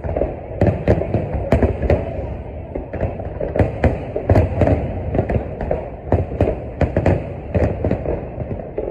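Aerial fireworks display: a rapid, unbroken barrage of shell bursts, sharp cracks about three a second over a continuous low rumble.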